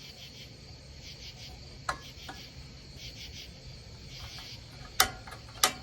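Crickets chirring steadily in a fast, pulsing trill. Over it come a couple of light clicks about two seconds in, then two sharp, louder clicks or knocks near the end.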